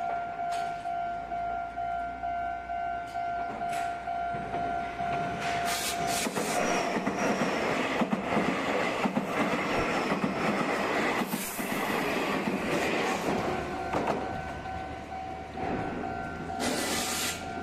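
Level-crossing warning bell dinging in a rapid steady rhythm, then a Meitetsu electric train passing close by from about six seconds in, a loud rush of wheel and running noise with rail clatter for about nine seconds. The crossing bell is heard again as the train clears, near the end.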